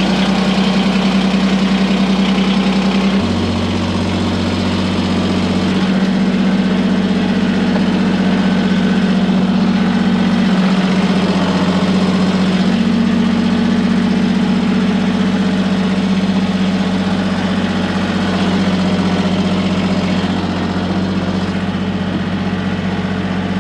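Diesel tractor engine idling steadily just after a cold start on glow plugs, with small shifts in engine speed a few seconds in and again about halfway.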